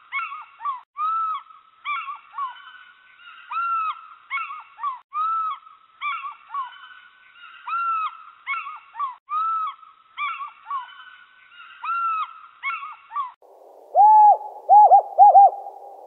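Birds calling: a steady series of short, arched calls, one or two a second. About 13 seconds in it switches abruptly to a lower-pitched call, given a few times in quick succession.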